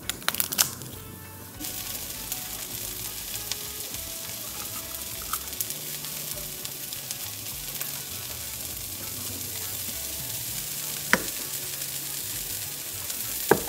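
A few knife knocks on a wooden cutting board as garlic is smashed, then, about two seconds in, diced onion and yellow pepper start sizzling in oil in a frying pan, a steady hiss. A single sharp click comes near the end, followed right at the close by a quick cluster of sharp knocks.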